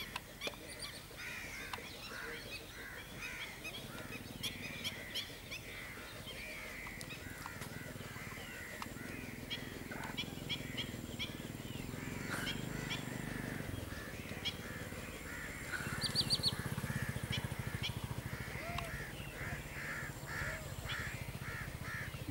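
Many birds calling over and over, short arching calls that overlap all the way through, with a few sharp ticks among them. A low steady hum runs underneath and grows stronger in the second half.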